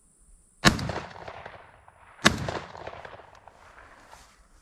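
Two shotgun shots at a dove, about a second and a half apart, each loud crack trailing off in a long echo over roughly a second.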